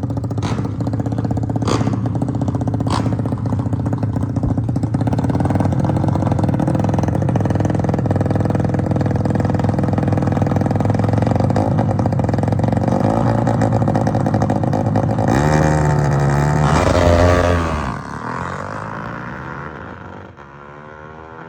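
Motorcycle engine running hard and steadily, with a few sharp knocks in the first seconds. About fifteen seconds in it revs up and down, then cuts back suddenly about eighteen seconds in, leaving a fainter engine sound.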